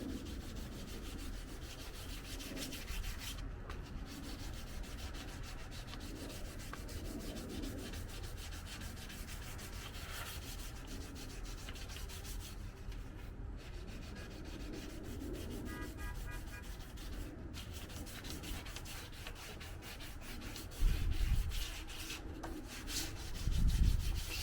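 Continuous sanding on a car's painted body panel, sandpaper rasping over the paint to flatten orange peel. Near the end come a couple of louder low bumps.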